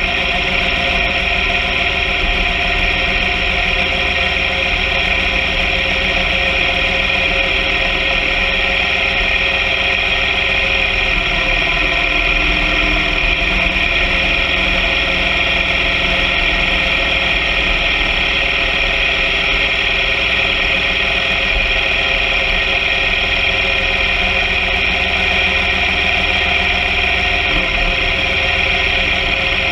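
BMW R 1200 GS Adventure sidecar rig's boxer-twin engine running steadily under way, with a strong, even rush of wind and road noise over it.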